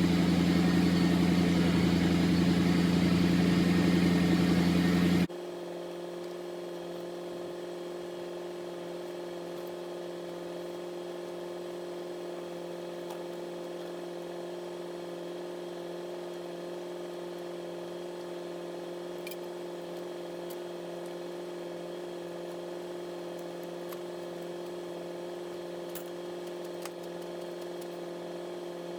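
A vehicle engine idling steadily, which cuts off abruptly about five seconds in. A quieter steady hum follows.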